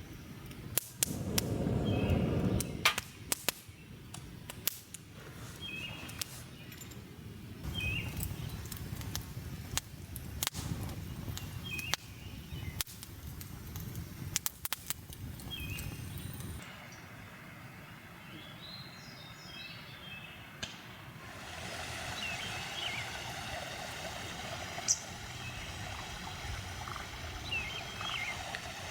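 Wood campfire crackling, with many sharp pops and snaps for about the first sixteen seconds, then a quieter stretch with a steady hiss and only occasional pops. Faint bird calls repeat throughout.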